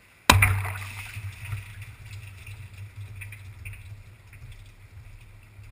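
Microwave oven switching on with a sudden loud click, then a steady low hum with irregular crackling.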